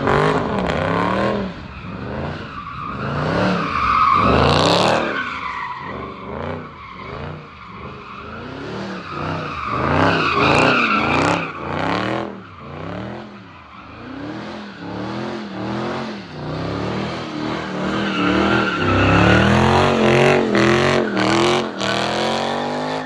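Car engine revving up and down over and over, about once a second, while the tyres squeal as the car spins donuts, the throttle hit and let off in turns. The tyre squeal swells louder several times, and the sound cuts off sharply at the end.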